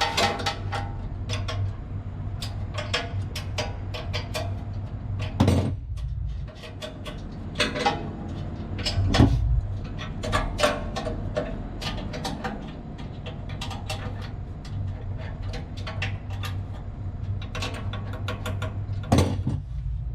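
Irregular metal clicks and knocks of hand tools working on an electric motor's mounting bolts during shaft alignment, with a couple of heavier knocks, over a steady low machine-room hum.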